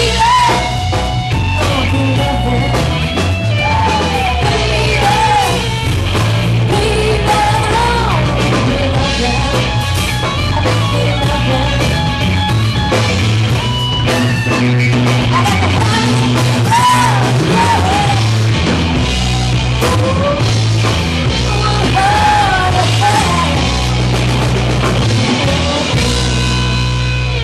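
Live rock band playing an instrumental passage: electric guitar lead over bass and drum kit.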